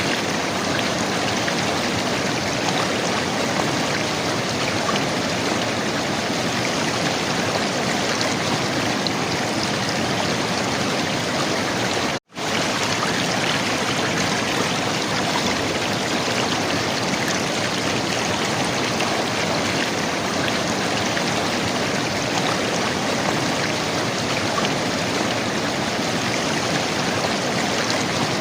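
River water flowing and gurgling in a steady stream, with a split-second break in the sound about twelve seconds in.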